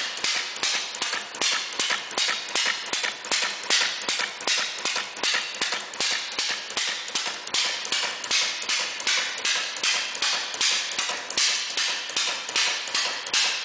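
Scale model of the 1883 Daimler experimental single-cylinder engine running steadily on gasoline, with hot-tube ignition and a flash carburetor. It fires with an even, sharp beat of about three strokes a second.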